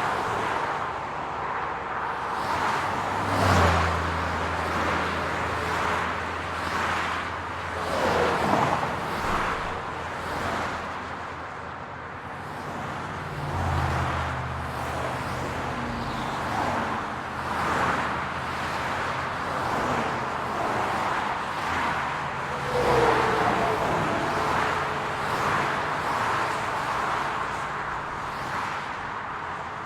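City street traffic: cars passing one after another in swells, with a low, steady engine hum that comes in twice for several seconds at a time.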